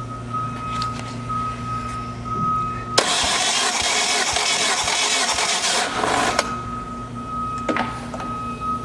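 Mitsubishi 4G63T turbo four-cylinder engine being cranked over by its starter for a compression test. The cranking starts abruptly about three seconds in and lasts about three seconds, against a steady high-pitched hum.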